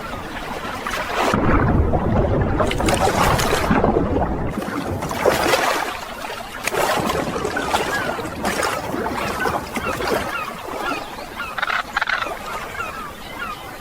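Water splashing and sloshing in irregular bursts, loudest in the first few seconds, with a few short bird chirps near the end.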